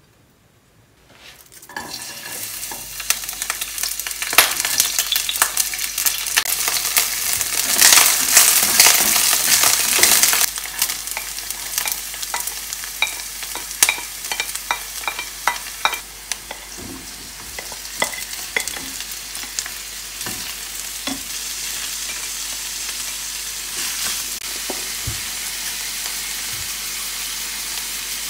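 Garlic, vegetables and sausage frying in hot oil in a frying pan. The sizzle starts suddenly about two seconds in and is loudest a few seconds later, with frequent clicks and scrapes of a utensil in the pan. Later it settles into a steady, even sizzle.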